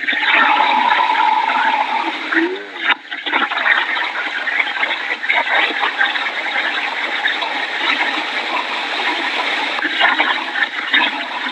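Steady rushing noise of hurricane wind and driving rain. A thin steady tone sounds for about two seconds near the start.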